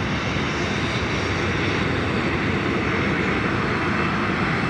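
Airliner jet engines running, a steady rushing noise.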